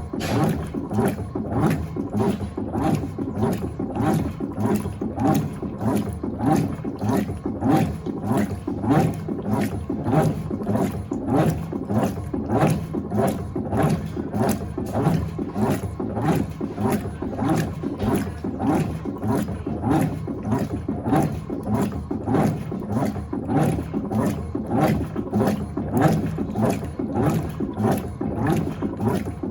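Electrolux Turbo Acqua Jet LTA15 top-load washing machine agitating a load in water during the wash cycle: a steady, rhythmic churning and sloshing that pulses in even strokes.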